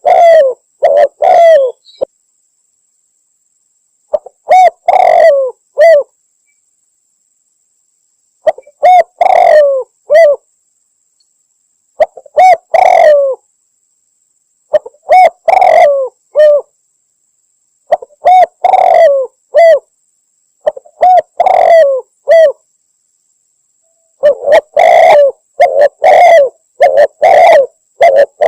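Spotted dove (tekukur) cooing in short phrases of several coos, each phrase followed by a gap of two to three seconds, with the phrases coming closer together near the end. It is a hunting lure call, the coo of a female calling a male.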